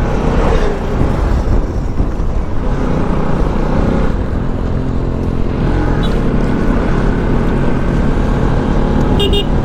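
Motorcycle engine running steadily while riding, with heavy low wind rumble on the microphone. A brief high-pitched beeping sounds near the end.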